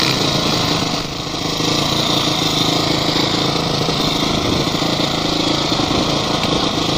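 Engine of an off-road vehicle running steadily, with a brief dip in revs about a second in before it picks up again.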